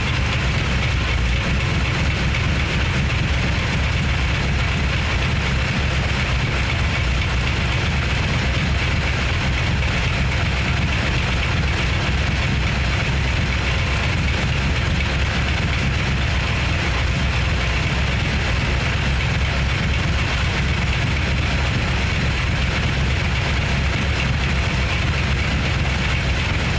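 1964 Chevy Impala's engine running steadily, circulating fresh oil just after an oil change.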